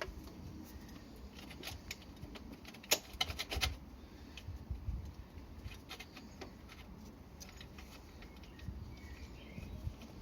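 Light metallic clicks and clinks of hand tools and parts being handled during work on a motorcycle, scattered, with a quick run of them about three seconds in.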